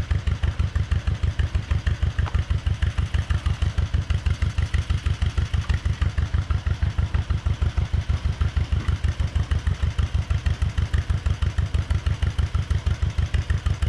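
Two-cylinder John Deere tractor engine idling: a steady, even pulsing of about five to six beats a second.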